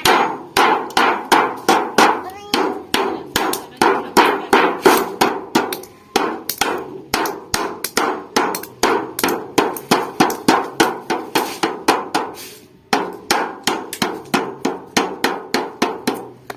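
Hand hammer striking refrigerator sheet metal in quick, even blows, about three a second, to fold a seam for a pot. The blows break off briefly twice, about six and thirteen seconds in.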